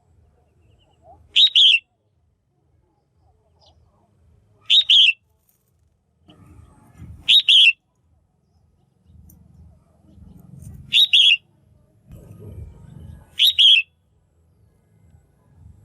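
Female red-whiskered bulbul calling: five short, loud calls spaced a few seconds apart.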